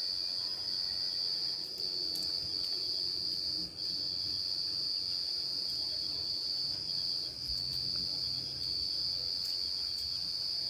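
Insect chorus of crickets or cicadas: a steady, shrill, high-pitched drone that dips only for a moment now and then.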